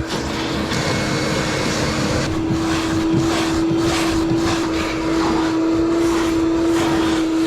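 A motor-driven machine running steadily, a constant hum over a rushing, airy noise, which stops abruptly at the end.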